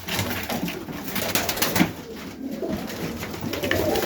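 Serbian Highflyer pigeons cooing in a loft, repeated low calls, with scattered short clicks and rustles among them.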